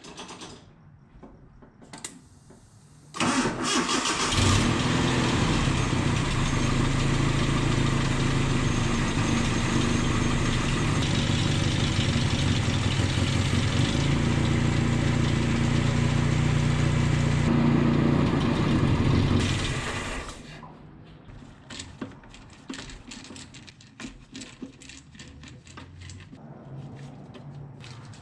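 1988 Nissan D21 pickup's engine starting about three seconds in and running steadily, then shut off at about twenty seconds. Faint ticking follows.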